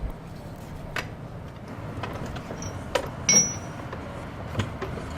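Scattered metal clinks and knocks of a blacksmith's tools on metal, a few irregular taps with one louder clink about three seconds in that rings briefly.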